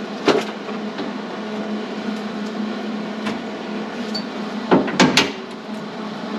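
Steady electrical hum with an even hiss over it, broken by a few short clicks or taps about five seconds in.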